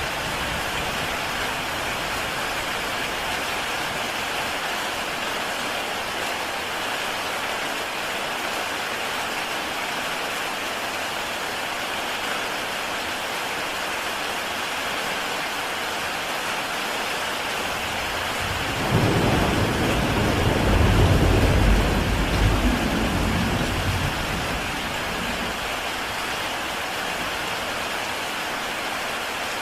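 Heavy rain falling steadily on a tile roof, an even hiss. About nineteen seconds in a deep rumble swells up, peaks a couple of seconds later and dies away after about five seconds.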